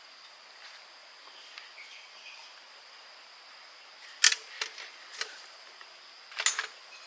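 Several sharp clicks and knocks, a cluster of three about four seconds in and a quick double near the end, over a steady faint high hiss.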